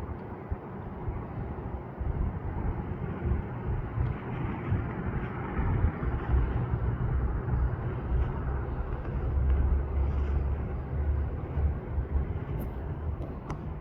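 Outdoor ambience: a steady, fluctuating low rumble with a fainter hiss above it, and a couple of brief sharp ticks near the end.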